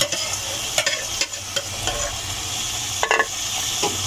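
Chicken pieces sizzling in hot oil and masala with potatoes in a pressure-cooker pot as they start to fry (bhuna). A metal ladle stirs them, knocking against the pot a few times.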